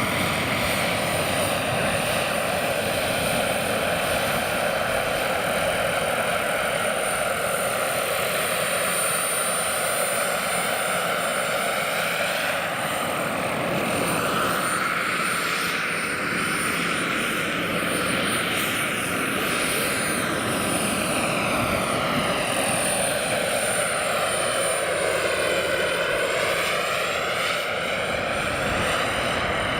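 Turbine-powered scale model SA 315B Lama helicopter flying: steady turbine and rotor noise with a high, steady whine, its tone sweeping and shifting as the helicopter moves about in the air.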